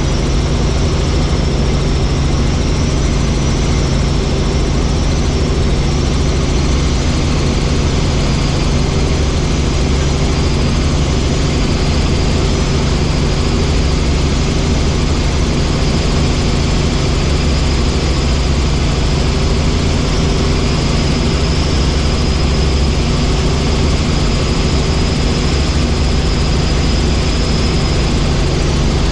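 Helicopter running steadily in flight: a loud, even drone of engine and rotor with a faint high whine above it.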